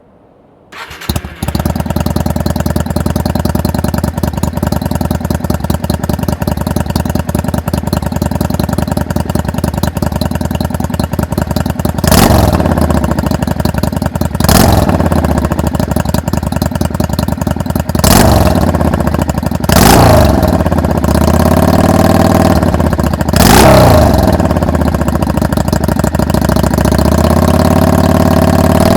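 Yamaha Drag Star 400's air-cooled V-twin breathing through a large slash-cut drag pipe with its baffle in: it starts about a second in, idles steadily, then from about halfway is revved in several short throttle blips, one held longer and falling back to idle.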